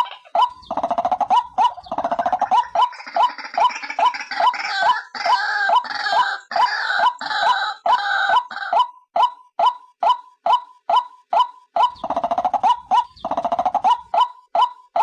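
White-breasted waterhen calls played as a lure: a steady run of short, repeated notes, about two or three a second, with a harsher, denser chorus of calls laid over them for most of the first nine seconds and again briefly near the end.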